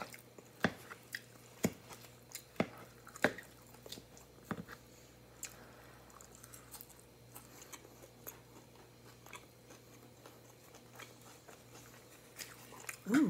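A person eating a leafy grilled chicken salad, with a run of sharp crisp crunches and clicks over the first few seconds, then quieter chewing.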